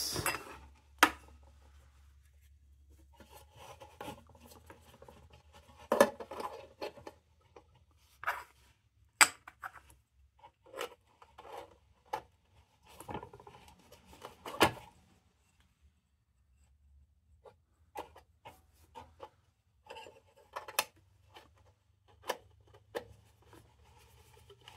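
Intermittent handling sounds from a tin hot-blast lantern being worked on by hand: scattered light clicks and clinks of thin metal parts, with brief rubbing between them.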